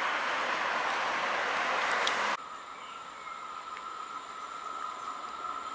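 Railway noise: an even rushing for about two and a half seconds, then an abrupt cut to a quieter steady high-pitched whine beside a long train of freight tank wagons.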